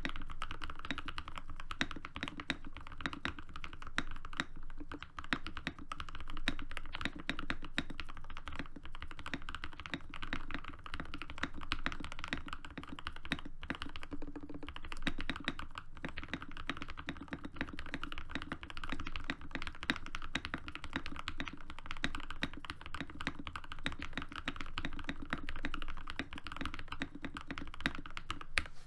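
Continuous fast typing on a Dukharo VN66 mechanical keyboard with hand-lubed, filmed SP Star Meteor linear switches and PBT keycaps: a dense, steady run of muted keystroke clacks.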